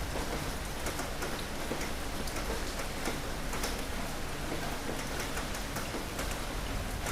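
Steady heavy rain falling on a surface, with many distinct drops pattering and a low background rumble underneath.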